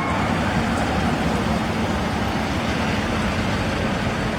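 Steady vehicle noise of engines and tyres, like cars driving past on the road.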